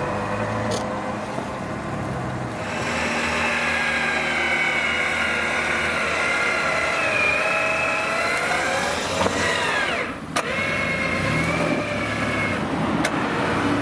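Off-road SUV engine working under load. Its pitch climbs slowly for several seconds, drops sharply about ten seconds in, then runs steadily again, with a couple of brief knocks.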